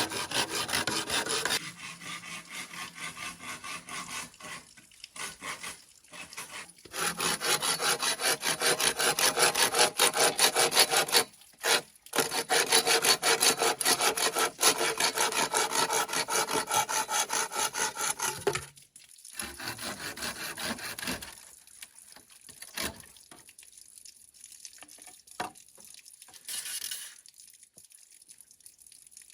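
Bamboo being sawn by hand: quick back-and-forth saw strokes with a couple of short pauses. The sawing stops about two-thirds of the way through, leaving a few faint knocks and rubs of handling.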